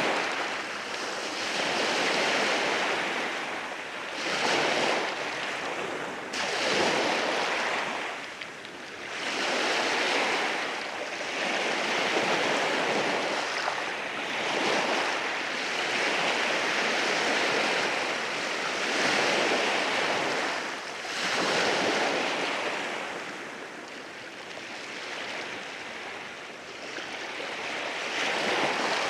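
Ocean waves breaking and washing in over a rocky shore, each one swelling and fading in turn every few seconds.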